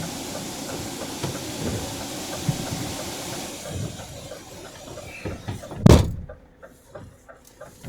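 Steady rushing wind-and-snow noise, then a car door shutting with one loud thump about six seconds in. After the thump the noise is cut off and it is much quieter, with faint, evenly spaced ticks.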